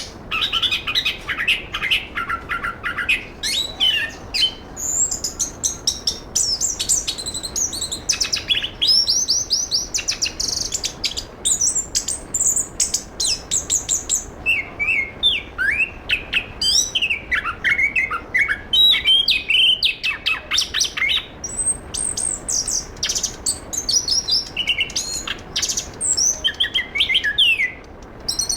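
Chestnut-capped thrush (anis kembang) singing a long, varied song of rapid trills, sharp chirps and high whistled phrases, with only brief pauses.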